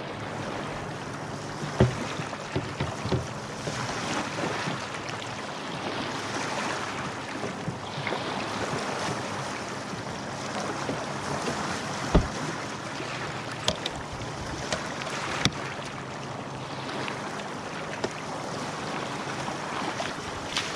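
Wind buffeting the microphone and water lapping around a jet ski sitting with its engine off, broken by a few sharp knocks, the loudest about twelve seconds in.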